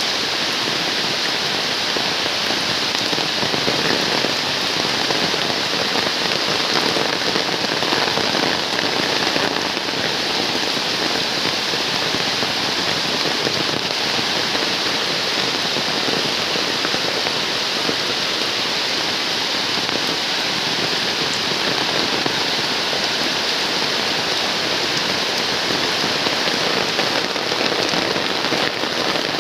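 Heavy rain falling steadily, a dense even hiss of raindrops that holds at the same level throughout.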